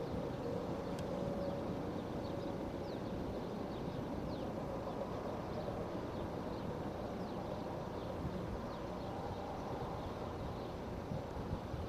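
Diesel locomotives running, a steady low rumble, with many short, high, falling bird chirps scattered through it.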